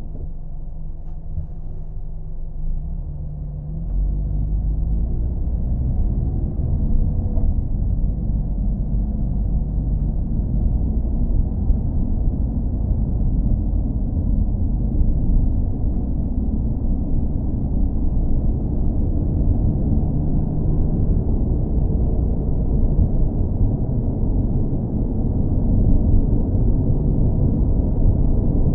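Car engine and driving rumble, deep and steady. It grows louder about four seconds in, with a faint rising engine pitch over the next few seconds as the car picks up speed.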